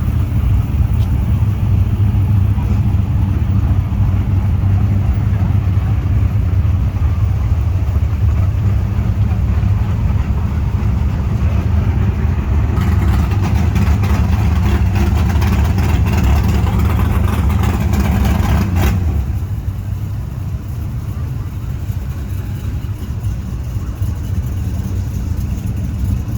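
Car engine running steadily close by. Several seconds past the middle a louder, hissier noise joins it, then about 19 s in the sound drops off abruptly and continues quieter.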